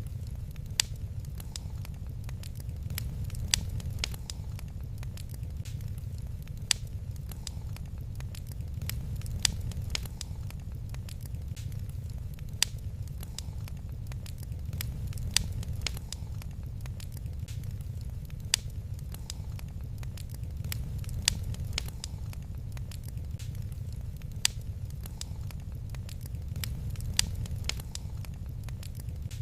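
Wood fire in a fireplace crackling, with many small pops and a sharper snap every few seconds over a steady low rumble.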